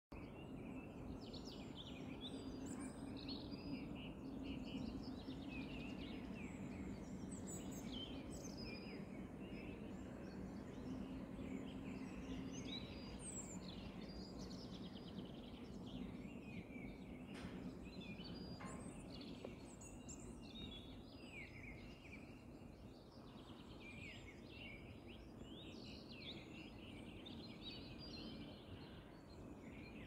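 Several small songbirds chirping and trilling in quick, overlapping phrases, over a steady low hum.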